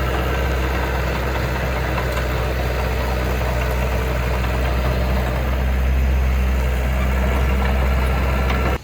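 Heavy diesel engine of earthmoving machinery running steadily with a deep, even drone, cutting off abruptly at the very end.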